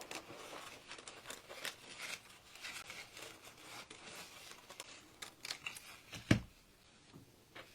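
Scissors snipping through a gold foil transfer sheet, with light rustling of the sheet and one sharp knock about six seconds in.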